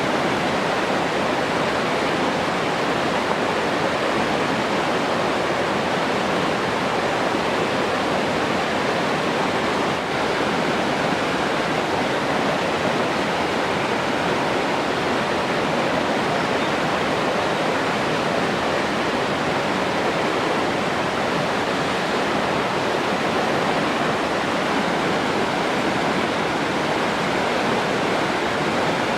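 Steady rushing water, like a waterfall or fast stream: a continuous, even hiss with no separate splashes or changes.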